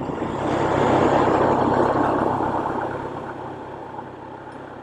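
A road vehicle passing by, its engine and tyre noise swelling and then fading away, over a steady low engine hum.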